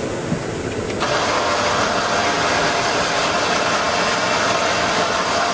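A car engine running steadily, with a thin constant whine over a dense mechanical noise. The sound changes abruptly about a second in.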